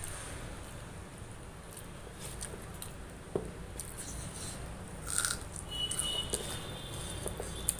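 Close-miked eating sounds: a person chewing a mouthful of rice and chana masala curry, with wet smacks and small clicks, the loudest about five seconds in.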